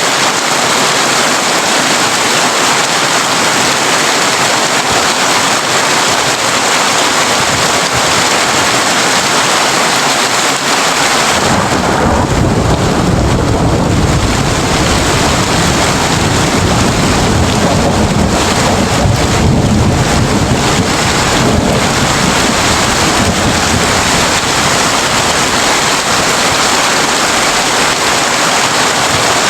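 Heavy rain drumming on a tin roof, a dense steady hiss. About eleven seconds in, a long low thunder rumble rolls in and dies away over roughly ten seconds.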